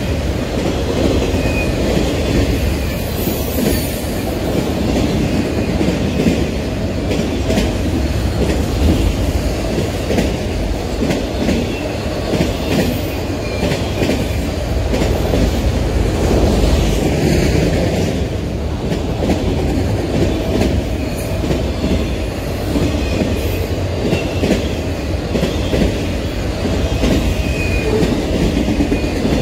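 Freight train of enclosed autorack cars rolling past close by, a steady rumble with the wheels clacking over the rail joints. A faint high wheel squeal comes in now and then.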